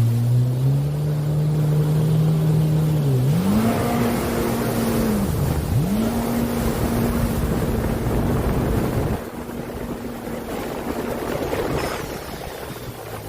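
Jet ski engine running at speed, revving higher about three seconds in, briefly dropping off and picking straight back up near six seconds, over the rush of water spray and wind. The engine sound fades noticeably about nine seconds in.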